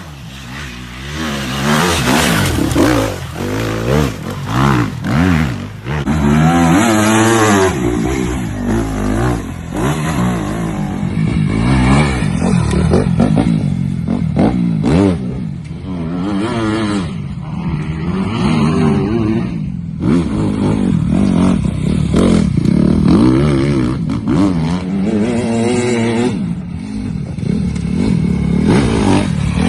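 Dirt bike engines revving and running, their pitch rising and falling with the throttle. The sound changes abruptly several times.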